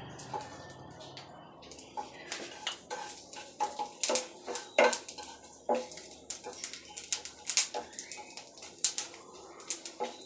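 Metal spoon clinking and scraping against a kadai as whole spices are stirred in hot mustard oil for tempering, with many sharp, irregular clicks that grow denser and louder after the first couple of seconds.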